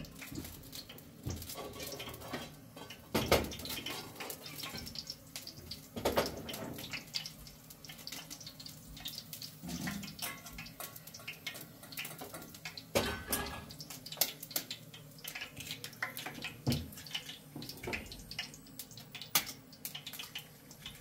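Water splashing and running, with irregular knocks and clatter throughout and several louder knocks.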